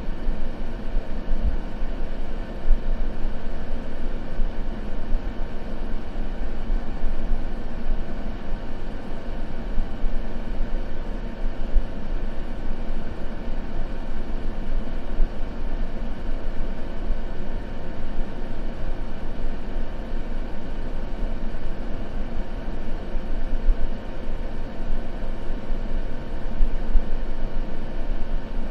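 Steady, unchanging white-noise sleep track: a deep, even rush of noise, heaviest in the low end, with a faint steady hum under it.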